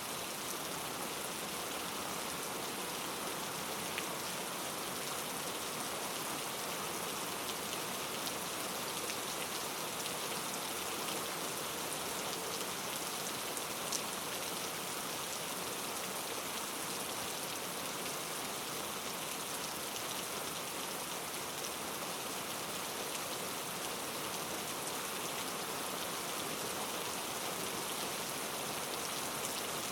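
Steady rain falling on a surface, an even hiss with occasional distinct drops.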